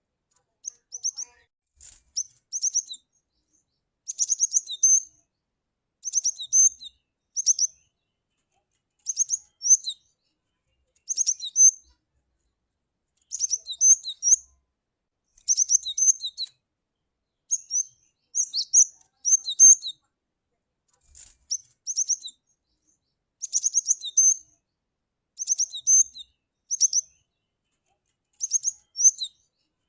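Cinereous tit (glatik batu) calling: short phrases of a few quick, high, sharp notes, repeated every second or two with silence between.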